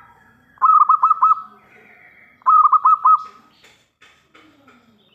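Zebra dove (perkutut) cooing: two phrases about two seconds apart, each a quick run of four or five rippling notes, followed by a few faint clicks and chirps.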